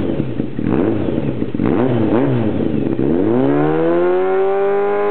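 Kawasaki Zephyr 400's air-cooled inline-four engine revving through an Ende-kan 4-2-1 racing exhaust with the baffle fitted. A few quick throttle blips come first. About three seconds in, a long rev rises and is held high.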